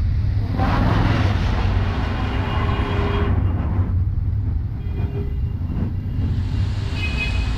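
Rainy city street ambience: a steady low rumble of road traffic under a hiss of rain, the hiss thinning out for a few seconds in the middle.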